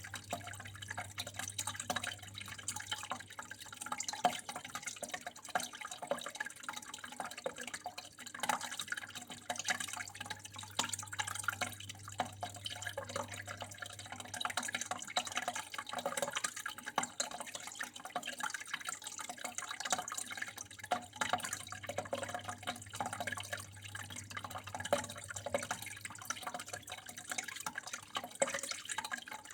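Water flowing and trickling steadily, with a dense, irregular patter of small drips and splashes, over a faint steady low hum.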